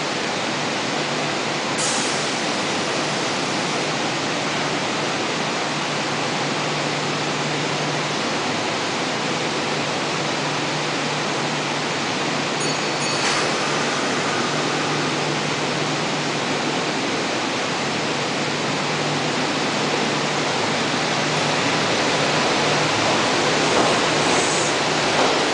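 Train running: a steady rolling noise with a constant low hum and a few brief clicks, growing slightly louder near the end.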